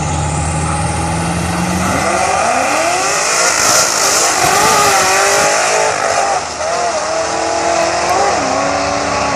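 Twin-turbo Chevrolet Impala at full throttle on a drag strip pass. The engine's pitch climbs in sweeps about two seconds in and is loudest around the middle. It dips briefly, then the pitch steps down toward the end.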